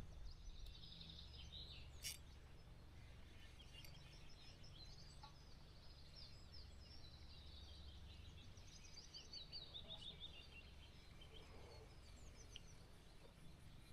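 Near silence with faint birdsong: small birds chirping in quick repeated notes over a low background rumble, with one sharp click about two seconds in.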